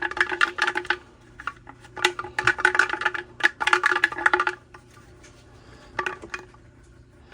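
Rapid hard rattling in three bursts of about a second each, then a brief one near the end, over a faint steady hum.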